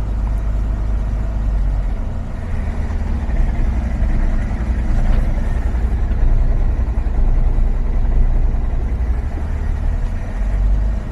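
Mercedes Sprinter's 3.0L V6 OM642 diesel engine running at idle, a steady low engine note with a small change in its pitch about two seconds in and again near the end.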